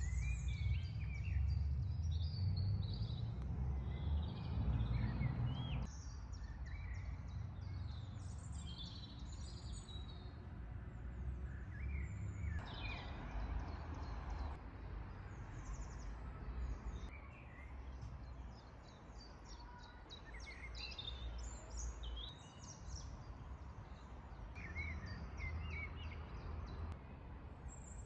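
Several songbirds singing and chirping in short, overlapping phrases, over a steady low rumble that is heaviest in the first few seconds.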